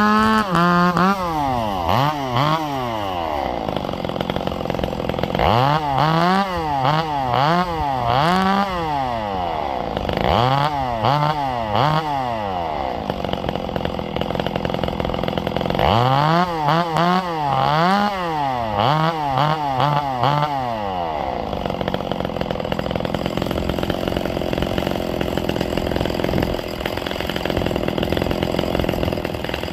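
Ported Echo CS-670 two-stroke chainsaw running and being revved in quick blips, its pitch swinging up and down in four bursts with lower running between them. In the last third the rising and falling stops and it runs steadier.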